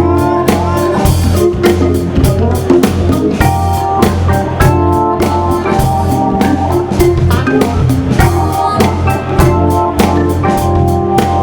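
Live band playing soul-jazz: a Hammond organ holding chords over a steady drum groove.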